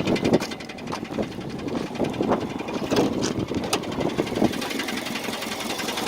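Subaru Legacy BG5's flat-four boxer engine running with a knock, several louder knocks standing out in the first few seconds over a fast steady clatter. The owner rules out a rod bearing and a hydraulic lash adjuster and does not know the cause.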